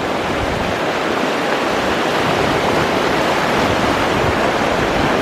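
Floodwater from the overflowing Skookumchuck River rushing steadily through a flooded residential street, a constant even rush that grows slightly louder.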